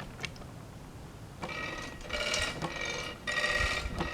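Sawmill log-turning crank mechanism squealing with a high, ringing metallic whine as a cherry log is cranked around on the bed, in two stretches: one starting about a second and a half in, a shorter one near the end.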